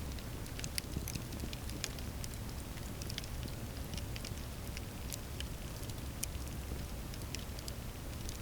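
Campfire burning steadily, with frequent sharp wood crackles and pops scattered irregularly over a low, even rumble of flame.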